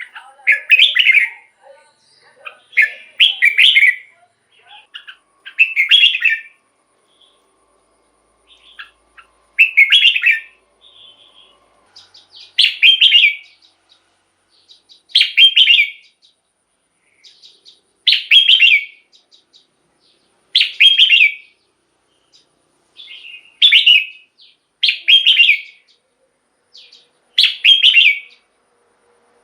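Red-whiskered bulbul singing: short, loud, warbled phrases repeated about every two to three seconds.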